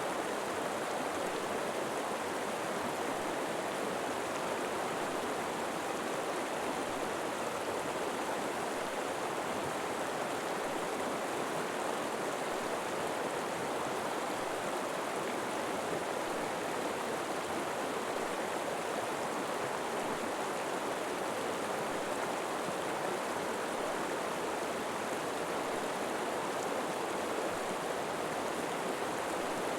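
River water flowing over rocks, a steady, even rush with no change.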